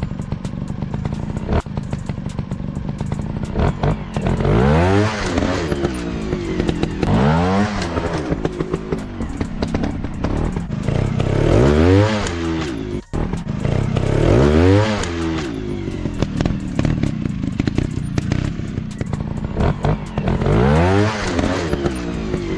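Dirt bike engines running and being revved in repeated bursts, the pitch rising and falling back about five times, with clattering knocks from the bikes working over rough ground.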